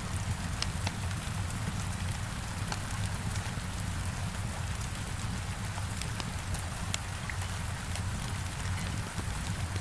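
Heavy rain falling steadily against a window, with a low rumble beneath it and scattered sharp crackles from a wood fire.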